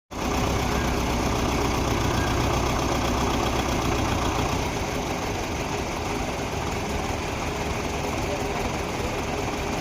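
Tractor engine running steadily, its note easing slightly about halfway through.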